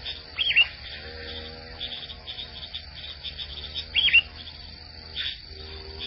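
Two short, sharp bird chirps about three and a half seconds apart, the loudest sounds here, over a steady rapid high ticking and soft held low tones.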